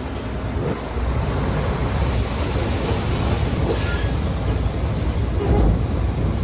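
Heavy earthmoving machinery working stone: a steady low engine rumble with grinding and clattering, and a brief high metallic squeal just before the middle.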